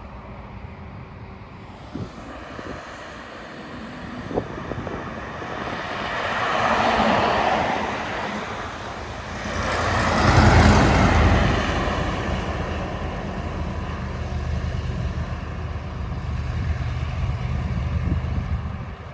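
Road traffic passing close by: one vehicle goes past about seven seconds in, then a louder heavy truck passes about ten seconds in. The truck's low engine drone carries on until it drops off near the end.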